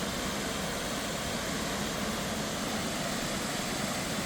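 Marshalls Falls, a 20-foot waterfall in a narrow rock gorge, pouring into Marshalls Creek: a steady, even rush of falling water.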